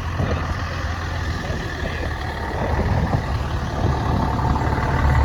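Heavy truck's diesel engine running, a deep steady rumble that grows louder toward the end.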